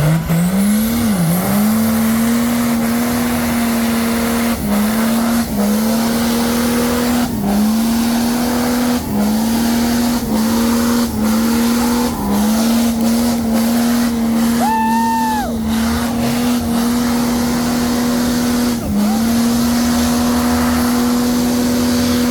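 A vehicle engine doing a burnout, held at high, steady revs. The revs dip briefly about once a second, and the spinning tyres squeal.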